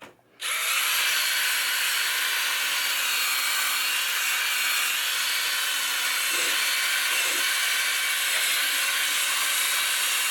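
Power drill spinning a brush attachment against the playfield's wood, scrubbing it with polish, with a steady hissing buzz. It starts about half a second in and runs evenly.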